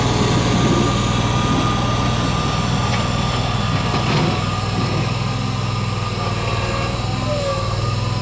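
John Deere X585 garden tractor's engine running steadily, with a steady whine above its hum; it eases off slightly partway through.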